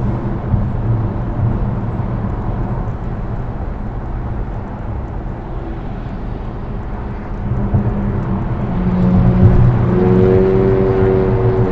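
Steady road rumble of a moving car, then from about eight seconds in the loud exhaust note of passing vehicles swells up and stays loud.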